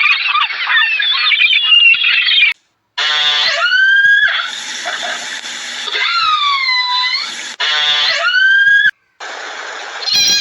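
Short, abruptly cut clips of high-pitched animal squeals and cries: a dense chorus of overlapping squeals, then single pitched calls that glide and dip, one of them repeated twice.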